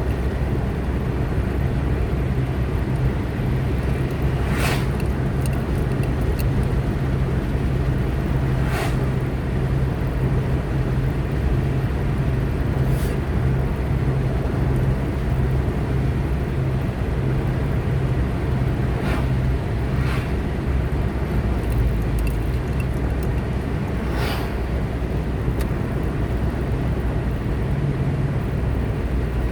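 Car driving along a road, a steady low engine and tyre rumble, with several brief swishes spaced a few seconds apart.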